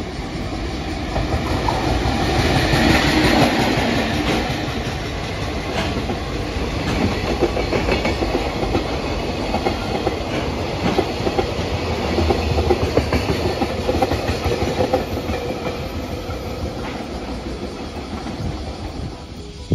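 A train running on the rails, its wheels clattering over rail joints in a continuous rumble that swells about three seconds in and again around twelve seconds, then cuts off suddenly at the end.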